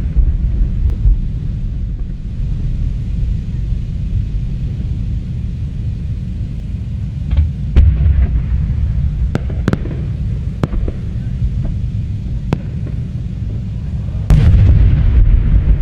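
Aerial fireworks display: a continuous low rumble of shell bursts, with several sharp cracks in the middle. A sudden, heavier low rumble sets in near the end.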